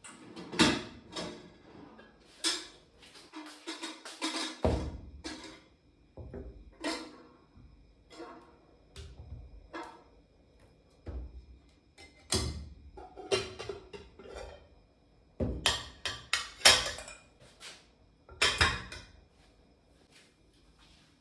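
Irregular knocks and clatter of household objects being handled and set down, some with a dish-like clink, over faint background music.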